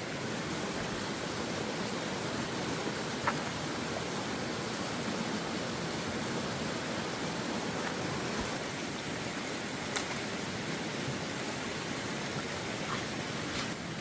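Steady rushing noise of water from the rain-swollen forest, with two faint clicks, one about three seconds in and one about ten seconds in.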